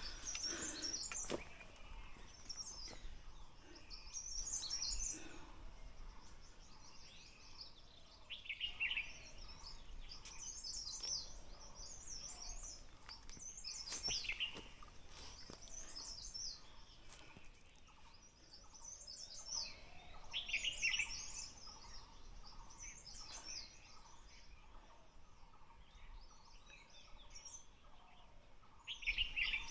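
Wild birds singing: short, high twittering phrases repeat every couple of seconds, with a lower, louder call now and then, about four times.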